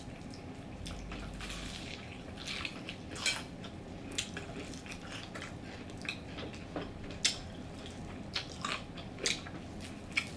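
Mukbang eating sounds: irregular crisp clicks and crackles of chewing and handling fried chicken, over a steady low hum.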